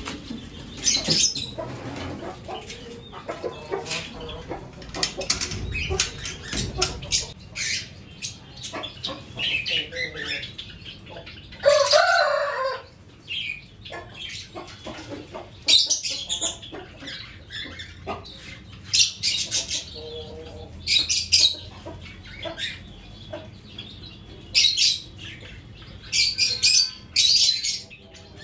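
Aviary birds chirping in many short, high calls, with wings flapping, and a chicken clucking and squawking among them, loudest about twelve seconds in.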